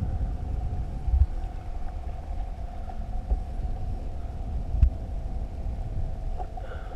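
Steady mechanical hum over a low rumble, with a few dull thumps about a second, three seconds and five seconds in.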